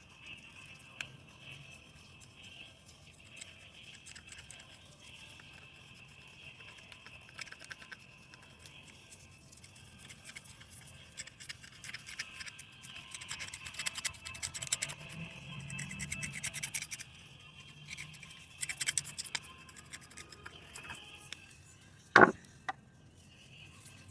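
A brush scrubbing a coffee grinder burr in bursts of rapid scratching, busiest past the middle, then a single sharp knock near the end.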